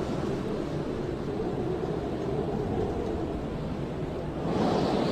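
Blizzard wind howling steadily, swelling into a stronger gust near the end.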